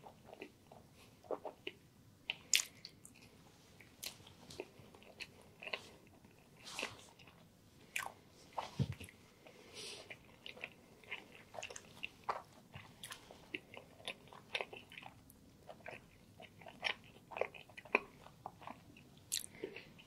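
Close-miked chewing of a chicken and mushroom sandwich: many irregular, sharp wet mouth clicks and soft crunches of toasted bread, with one dull thud about nine seconds in.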